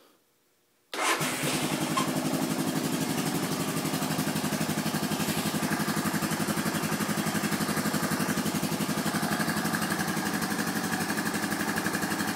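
Honda FourTrax 350 4x4's single-cylinder four-stroke engine starting suddenly about a second in, then idling steadily with an even, rapid pulse.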